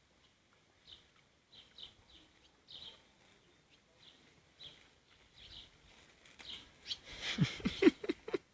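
Small birds chirping, short high chirps about once a second. Near the end comes a loud, quick burst of sharp sneezes and snorts from the dog.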